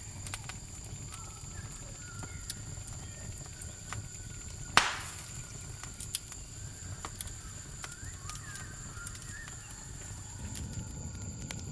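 Campfire crackling with scattered small pops and one loud snap about five seconds in, over a steady high-pitched insect trill.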